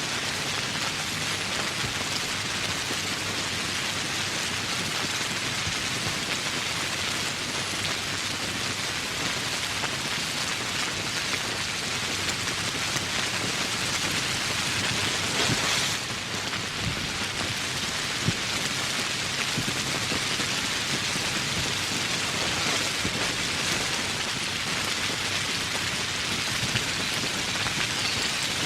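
Steady rain falling, a dense hiss of drops that swells slightly about halfway through, with one sharper drop tap a little later.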